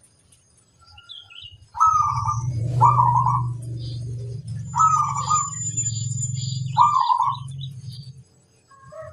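Zebra dove (perkutut) cooing, a string of repeated coo notes starting about two seconds in, with other small birds chirping thin high notes around it.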